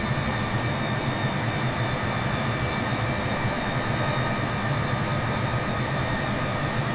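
Steady cabin noise inside a Singapore Airlines Airbus A380, the even rush of airflow and engines with a few faint steady tones over it.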